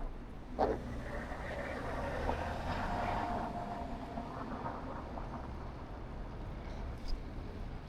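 A motor vehicle passing: a swelling, then fading, rush of noise with a steady whine in it, peaking about three seconds in. A single sharp click comes just before it.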